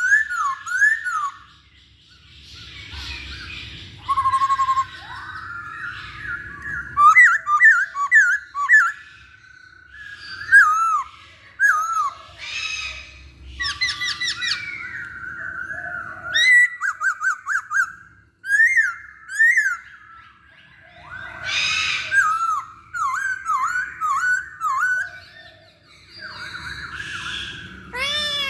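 Black-throated laughingthrush (poksay Hongkong) singing: loud, quick runs of slurred whistled notes that bend up and down, mixed with some harsher, scratchy notes, in phrases broken by short pauses.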